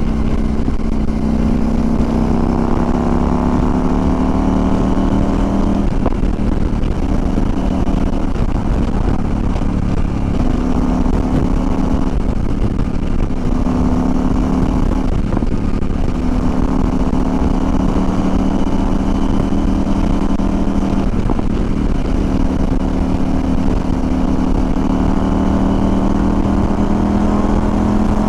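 CFMOTO Ibex 800 motorcycle's parallel-twin engine running under way, its pitch climbing slowly as it pulls, then dropping off briefly several times as the throttle is eased and picking up again. A steady low rumble of wind on the microphone runs under it.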